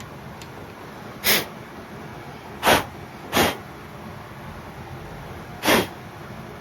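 Four short bursts of compressed air from a blow gun, clearing debris out of freshly die-chased threaded holes in the cylinder head.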